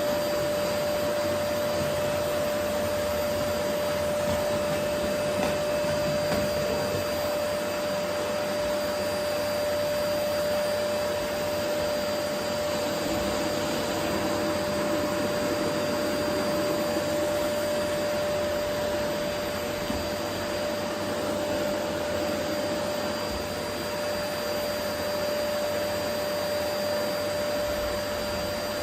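Vacuum cleaner running steadily, a constant rushing whoosh with a steady hum underneath, swelling and dipping a little as the cleaner moves.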